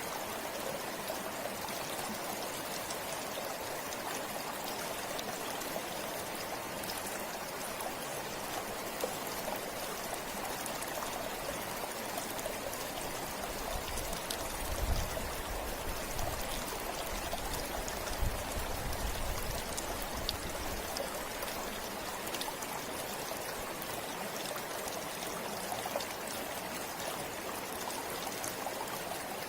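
Forest river water flowing steadily, an even rushing and babbling. A low rumble comes and goes for several seconds about halfway through.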